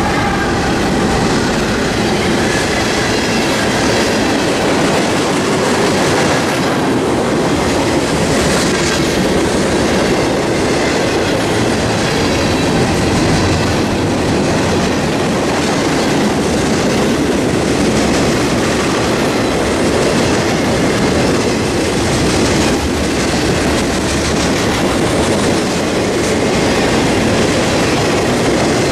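Norfolk Southern freight train passing close by at speed: a steady, loud rush of steel wheels rolling and clattering on the rails as covered hoppers and boxcars go by.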